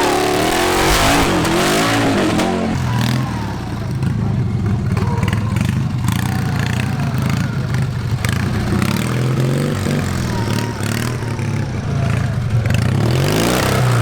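Mud mower (modified lawn tractor) engine revving up and down, settling to a steady run, then revving again near the end.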